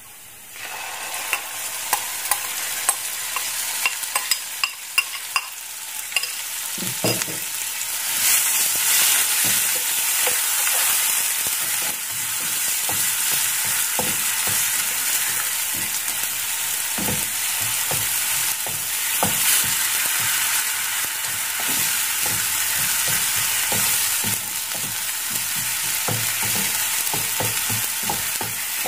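Pounded spice paste (kroeung) frying with garlic in oil in a non-stick pan. It sizzles steadily while a wooden spatula stirs it, scraping and tapping against the pan. The sizzle builds as the paste goes in and gets louder about eight seconds in.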